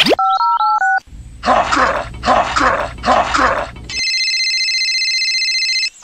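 Edited-in electronic sound effects: a short beeping that alternates between two notes, then four rough, evenly spaced bursts, then a steady high electronic ringing tone lasting about two seconds.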